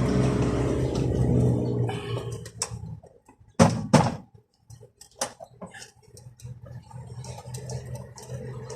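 Two loud sharp knocks about half a second apart, followed by light scattered clicks, as work goes on at the car door's window mechanism. A low steady hum is heard for the first couple of seconds, then drops away.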